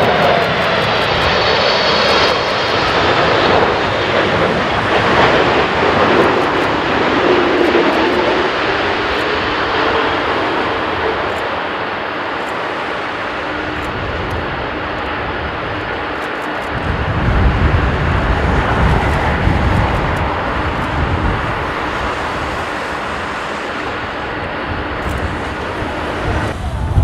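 Jet airliner engines running loud as the aircraft passes, their whine gliding down in pitch over the first several seconds. From about two-thirds of the way through, a heavy low rumble comes in under the engine noise.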